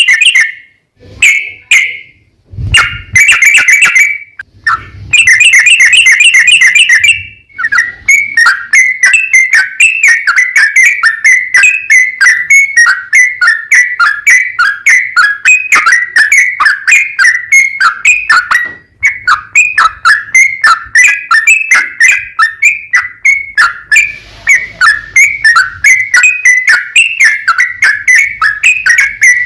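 Yellow-vented bulbul (trucukan) singing loudly in long rapid runs of repeated whistled notes: a few short, fast trills with brief gaps over the first seven seconds, then an unbroken string of notes at about four to five a second.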